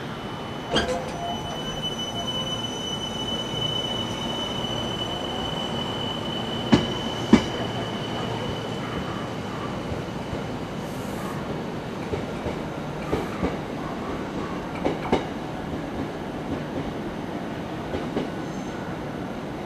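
A Meitetsu red electric train pulling out of a station and running away down the line. Its wheels click sharply over the rail joints, and a steady high-pitched whine runs through the first half.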